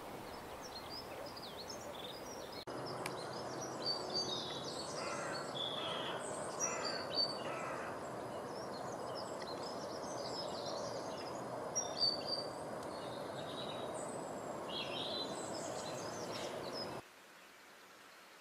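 Several small birds chirping and calling in quick, overlapping phrases over a steady background hiss. The background changes abruptly about three seconds in and again near the end.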